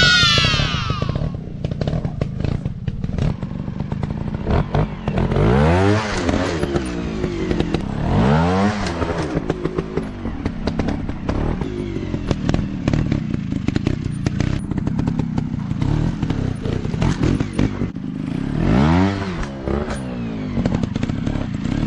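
Dirt bike engines revving up and falling back again and again, with about four big rises in pitch, over a steady scatter of sharp clicks and knocks.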